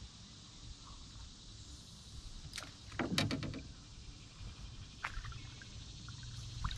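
A few sharp knocks and clatters in a canoe, the loudest a short cluster about three seconds in, over a low steady rumble.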